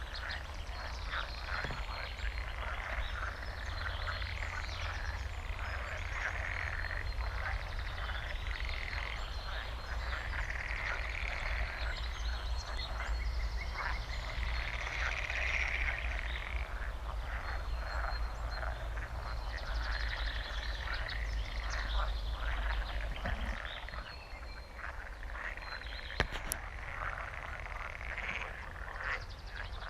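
A dense chorus of croaking frogs, many calls overlapping without a break. A low rumble beneath it drops away about three-quarters of the way through, and there is a single sharp click near the end.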